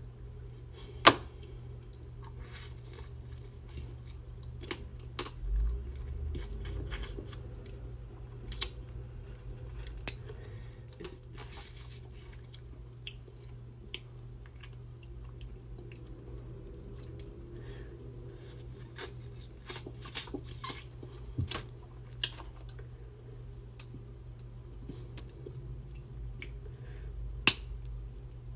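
Snow crab shells being cracked and snapped apart by hand. Sharp cracks come at uneven intervals, with short crunchy, rustling spells between them, over a steady low hum.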